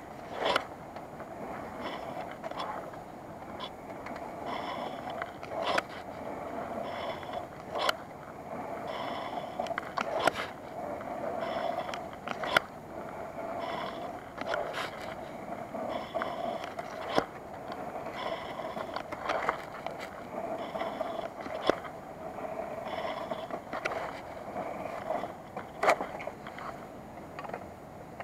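Steady rushing of a river, with scattered sharp clicks and scrapes through it and a faint high call repeating every second or two.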